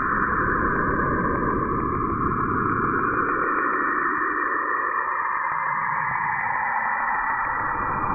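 Saturn's natural radio emissions recorded by the Cassini spacecraft and shifted down into the audible range: a steady, eerie hissing whoosh whose bands slowly drift lower in pitch, with a rapid run of faint ticks beneath.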